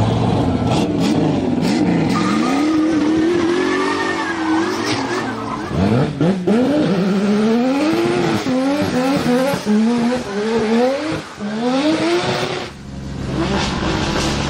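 Drift car engine revving hard, its pitch climbing and falling again and again in quick swings, over a hiss of tyre squeal. It drops back briefly near the end.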